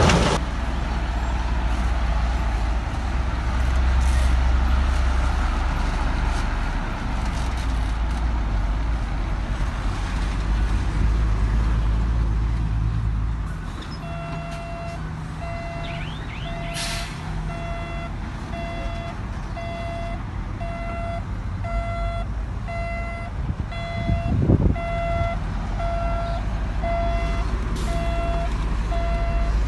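Heavy diesel construction-machine engine running hard. About halfway through it drops back and a reversing alarm starts beeping steadily, a little more than one beep a second. There are a couple of short knocks along the way.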